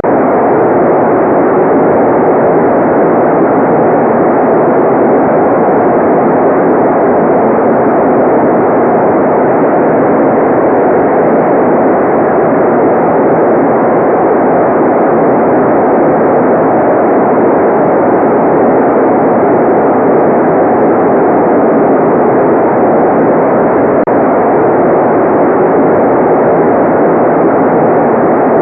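Continuous white noise: a steady, even rush that never changes in level. It sounds dull rather than hissy, with its weight in the middle range and nothing in the high treble.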